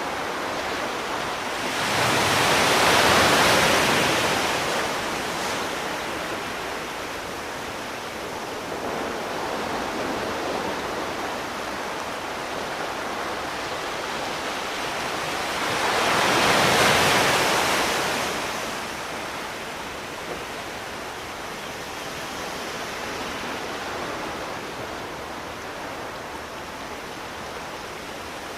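Sea surf washing ashore: a steady hiss of water with two waves swelling and breaking louder, one about two seconds in and another about halfway through, each fading over a few seconds.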